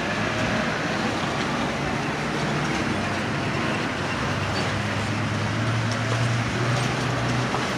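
Road traffic passing on a busy street, with a vehicle engine's low hum close by that grows stronger in the last few seconds.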